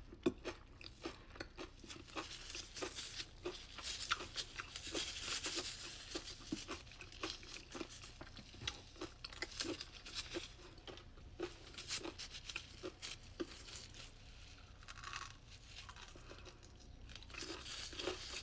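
A person chewing a Dubai chewy cookie up close, with faint, irregular crunches from the roasted kataifi and pistachio filling.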